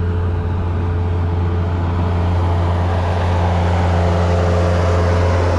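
A vehicle engine running steadily with a low, even hum, growing a little louder about halfway through.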